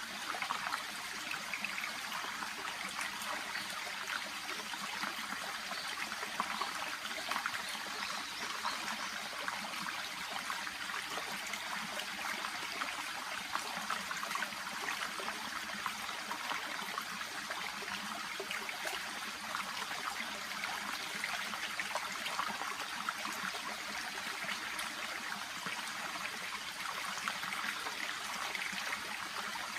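A shallow brook babbling steadily, water trickling and splashing over stones with a constant light patter.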